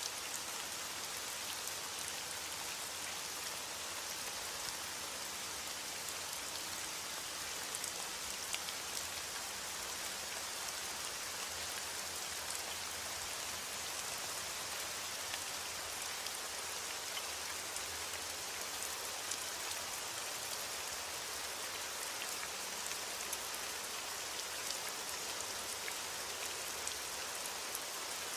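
Heavy rain falling on a window: an even, steady hiss, with scattered faint ticks.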